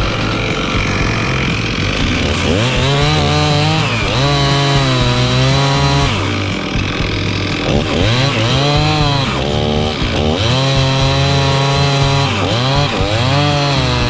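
Chainsaw revved up to full speed about five times, holding a high steady note for a second or more each time before its pitch drops back toward idle.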